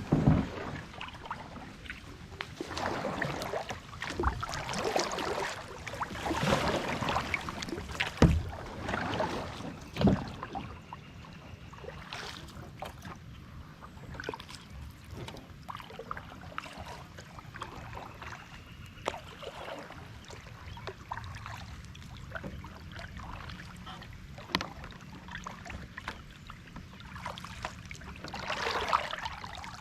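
Kayak paddling: paddle strokes swishing and splashing through the water, with a few sharp knocks in the first ten seconds, then a quieter stretch of drips and small ticks before another stroke near the end.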